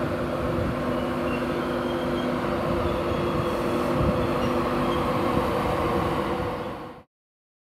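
Class 91 electric locomotive moving slowly alongside the platform: a steady hum over the rumble of its wheels on the rails. The sound cuts off abruptly about seven seconds in.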